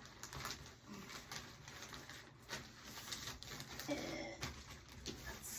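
Rustling and light clicking of items and packing materials being handled, with a short bird call about four seconds in.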